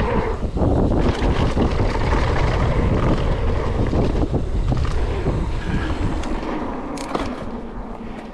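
Wind buffeting the microphone and mountain bike tyres rolling over a dirt singletrack, with the bike rattling over bumps. The noise fades over the last couple of seconds.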